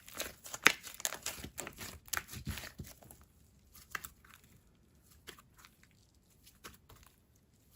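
Thick, stretchy slime being squished and stretched by hand, giving a run of small clicks and bubble pops. The pops come thick and fast for about the first three seconds, then thin out to an occasional one.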